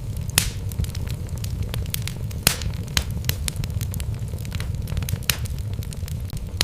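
Wood logs burning in a fireplace: a steady low rumble with frequent crackles and a few louder pops.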